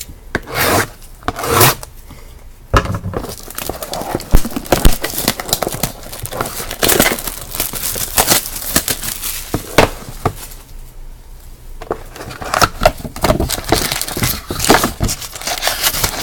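Plastic shrink-wrap and card-box packaging crinkling and tearing as a sealed box of trading cards is opened and its packs taken out, in irregular rustles with sharp crackles.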